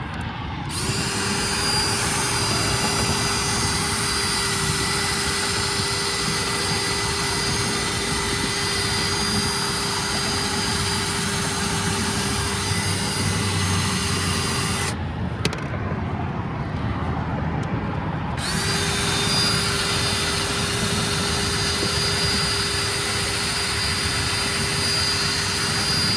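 Power drill running steadily with a fixed whine as it bores a hole into a water-filled trash can; the drill stops for about three seconds about halfway through, then starts again.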